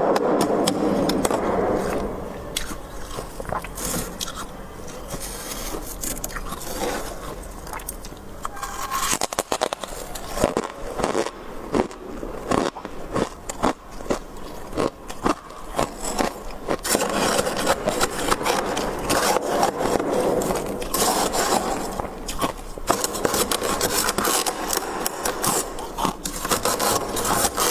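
Freezer frost being scraped, a dense rasping sound, with a stretch of sharp taps and crunches in the middle before the scraping picks up again.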